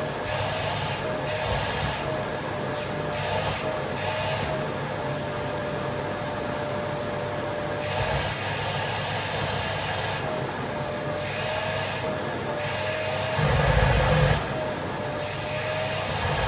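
Vacuum cleaner running, its motor whine wavering slightly in pitch over a steady rush of suction that rises and falls. There is a louder low rumble briefly about 13 seconds in.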